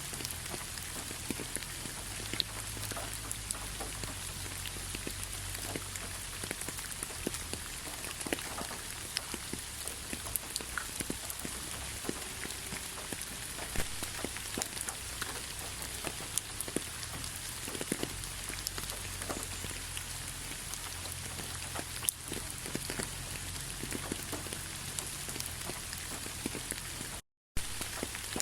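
Light rain falling steadily, a soft even hiss with many small, distinct drop ticks. The sound cuts out completely for a split second near the end.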